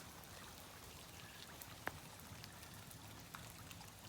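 Faint light rain, a soft patter of scattered drops with one sharper tap about two seconds in.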